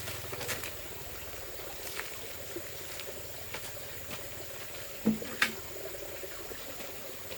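Steady light trickling of water with scattered small clicks, and two sharper knocks in quick succession about five seconds in.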